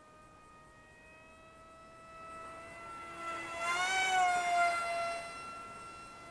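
Small RC plane's electric brushless motor and pusher propeller whining as it flies past. The whine grows louder, peaks about four seconds in, then drops in pitch and fades as the plane passes.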